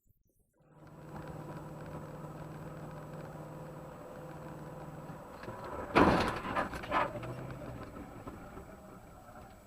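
Car running steadily, heard from inside through a dash camera. About six seconds in comes a loud sudden impact, then two more knocks, typical of a collision.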